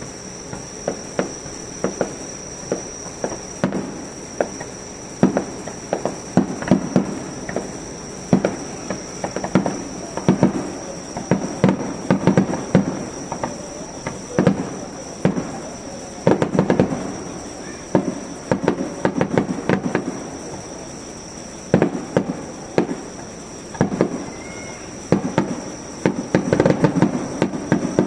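Fireworks display: aerial shells bursting in a steady run of sharp bangs, some coming in thick clusters with crackling, over a steady high chirring of insects.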